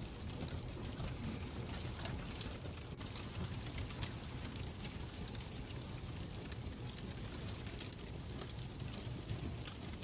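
Fireplace crackling: irregular sharp pops and snaps over a steady low rumble of burning logs.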